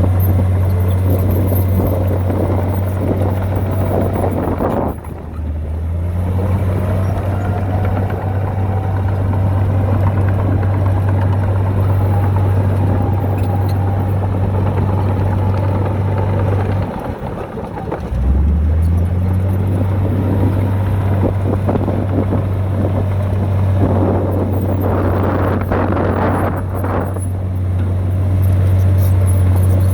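Heavy diesel engine of earthmoving machinery running with a steady deep drone, briefly dropping out about five seconds in and again around seventeen seconds in.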